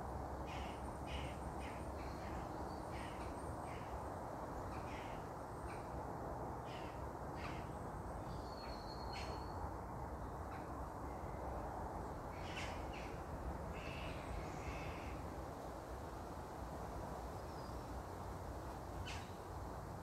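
Wild birds calling in short, scattered chirps, with one brief whistled note about nine seconds in, over a steady background hiss.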